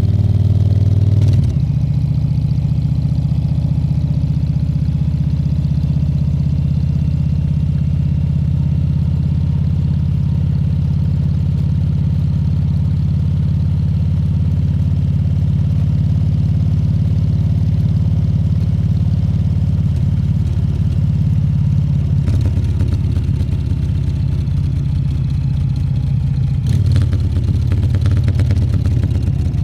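Harley-Davidson Fat Bob 114's Milwaukee-Eight 114 V-twin engine running steadily at low, even revs, with a brief change in its note about a second and a half in.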